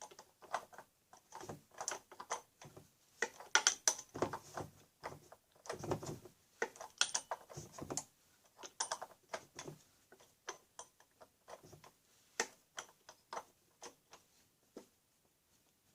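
Socket ratchet clicking in irregular runs of quick clicks as it tightens the oil filter cover, with fewer clicks toward the end.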